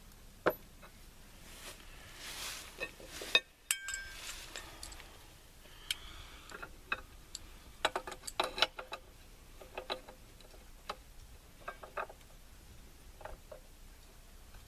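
Scattered small metallic clicks and clinks of tools and the jam nut being worked onto a rifle barrel's muzzle threads, with a quick cluster of clicks about eight seconds in.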